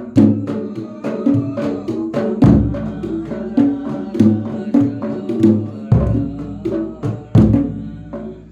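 Javanese percussion ensemble with a jedor bass drum: quick hand-drum strokes over repeating ringing pitched tones, with three deep booms of the jedor, the playing dying away near the end.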